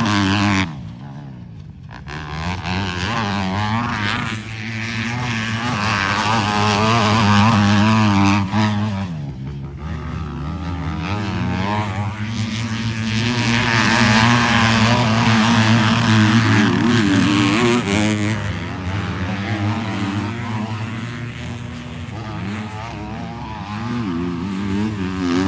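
Motocross bikes racing, their engines revving up and down as riders accelerate and shift. The engine sound drops away sharply about a second in and again around nine seconds, then comes back.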